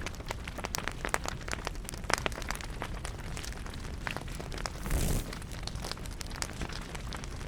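Wood fire crackling, with many small irregular pops and snaps over a low rumble, and a brief louder whoosh about five seconds in.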